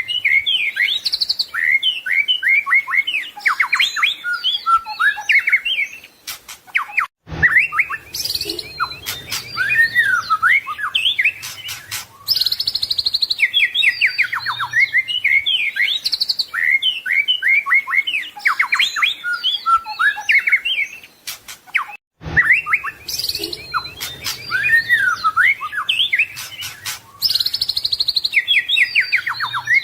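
White-rumped shama (murai batu) singing a fast, varied song of rapid trills, whistles and chattering phrases. The same passage repeats about every fifteen seconds, with a brief break at each join.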